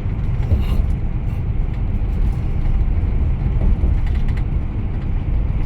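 Scania K410IB bus cabin noise: a steady low rumble with scattered creaks and rattles from the interior.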